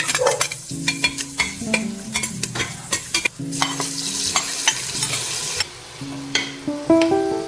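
Food sizzling in a pan while being stirred, the utensil clicking and scraping against the pan many times, over soft background music.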